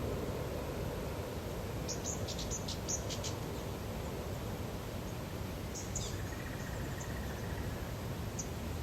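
Outdoor lakeside ambience: a steady low hiss with a quick run of short, high chirps about two seconds in and a few more around six seconds, from small birds or insects.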